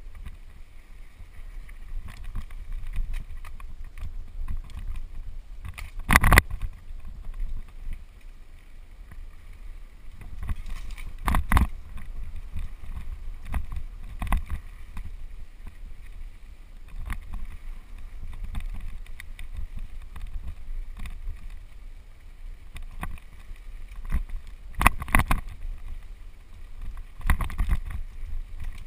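Mountain bike speeding down a dirt trail: a steady wind rumble on the microphone, with rattles and knocks from the bike going over bumps. The loudest knocks come about 6, 11 and 25 seconds in.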